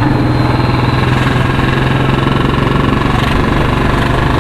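Single-cylinder Royal Enfield Bullet 350 running steadily with a loud, even pulsing beat through a C-bend header pipe and long Punjab-style silencer, its pitch holding level with no revving.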